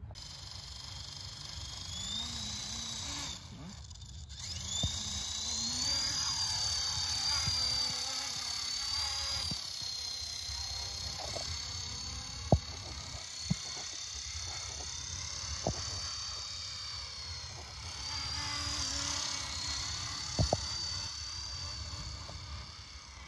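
Electric radio-controlled helicopter running, its motor giving a high whine that rises twice early on and then wavers in pitch as the throttle changes. A few sharp clicks are heard through it.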